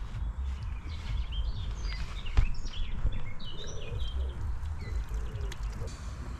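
Small birds chirping, in a run of short quick chirps over a steady low rumble. A single sharp knock about two and a half seconds in is the loudest sound.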